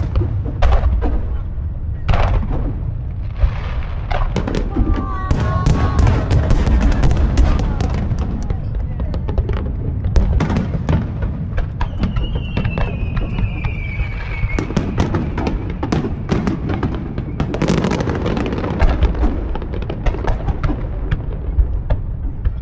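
Aerial fireworks bursting one after another in a dense barrage: deep booms under a continuous rumble, with sharp crackling reports throughout. A high tone glides down about twelve seconds in.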